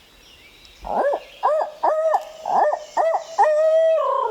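Barred-owl hooting in the 'who cooks for you, who cooks for you-all' rhythm: about six short rising-and-falling hoots, ending in a longer drawn-out final note.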